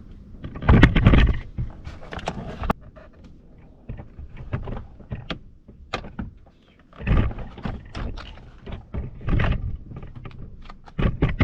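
Plastic door trim panel and its wiring being handled: a run of clicks, knocks and rustles as the panel is moved about and electrical connectors and the window switch are worked loose, with a few louder knocks about a second in, around seven seconds in and near the end.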